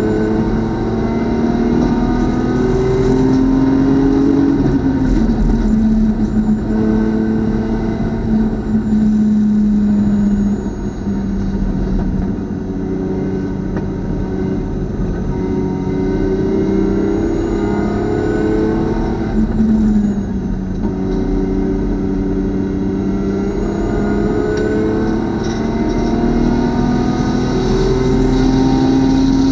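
BMW club race car engine running hard around a track, its note climbing under acceleration and dropping back sharply several times at shifts and braking.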